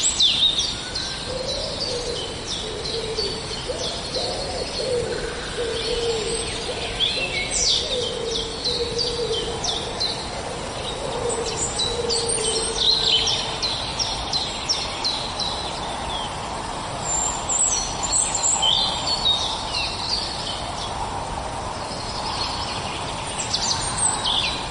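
Morning bird chorus: many birds chirping and trilling in quick high notes, with a low hooting call repeated through the first half.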